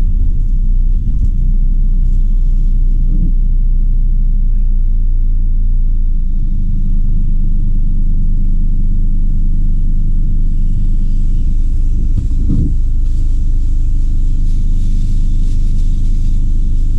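Car engine and road rumble while driving: a deep, steady drone. The engine note changes about six seconds in.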